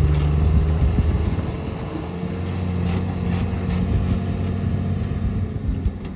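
Heavy diesel engine running, its deep hum easing off about a second in and carrying on more quietly, with a few faint knocks near the middle.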